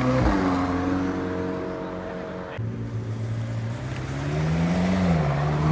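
A car engine running and revving, its pitch holding, then rising and falling, with abrupt breaks about a quarter of a second in and again past two and a half seconds.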